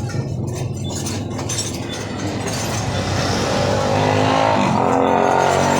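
Yamaha Mio Sporty scooter's single-cylinder four-stroke engine running, getting louder about three seconds in, in a scooter that has been hard to start.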